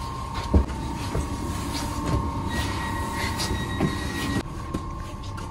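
Inside an electric double-deck commuter train: a steady high electrical hum, with footsteps thudding on the stairs to the upper deck, the heaviest about half a second in. A higher tone sounds for about two seconds in the middle and cuts off suddenly.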